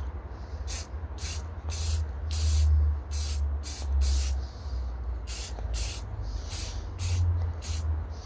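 Primer being sprayed onto pickup truck bodywork in about a dozen short hissing bursts, with a steady low hum underneath.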